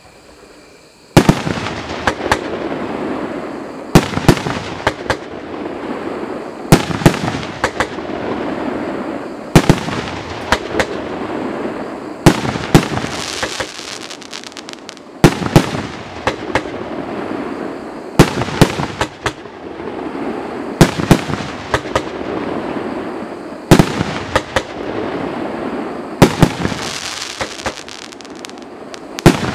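Svea 'El Toro' fireworks cake firing, starting about a second in. Every few seconds there is a group of sharp loud reports, and a dense crackling rush fills the gaps between them.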